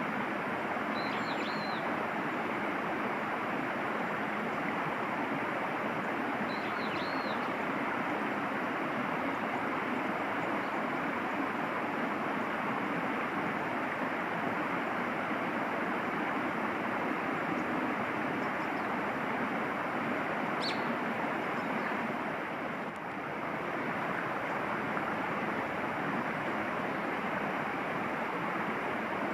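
Steady rushing outdoor noise, with a small bird giving two short high calls, one about a second in and another about six seconds later.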